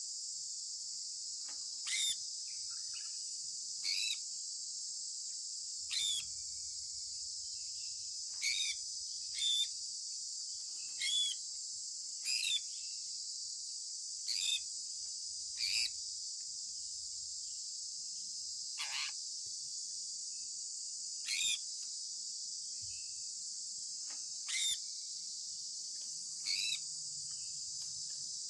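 Sun conure parrot chirping: short, sharp calls that sweep downward, about one every two seconds, with one longer call dropping lower near the middle. A steady high-pitched hiss runs underneath.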